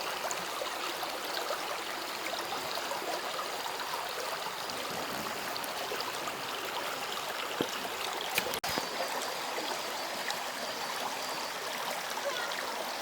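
Running water of a forest stream, a steady rushing flow, broken once by a click and a short dropout about two-thirds of the way through.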